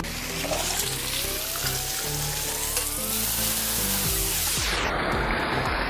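Background music with a slow rising sweep in its first half, over the steady sizzle of chicken and potato strips stir-frying in oil in a wok.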